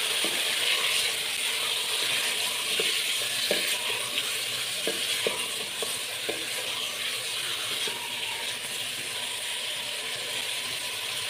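Raw meat and sliced onions sizzling in hot oil in an aluminium pressure cooker as they are stirred with a wooden spatula: the first frying (bhuna) of the meat. The sizzle eases a little over time, with occasional short knocks and scrapes of the spatula against the pot.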